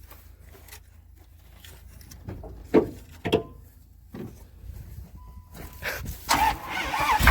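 Scattered clicks and knocks, then the Dodge 5.2 V8 starting to crank, getting louder over the last second or two. The engine was rebuilt with RTV in place of head gaskets and has milky oil.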